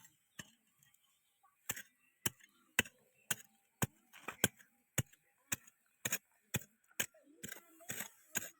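Blacksmith's hammer striking metal while forging a hoe: sharp, evenly spaced blows, about two a second, with a few quick double blows near the end.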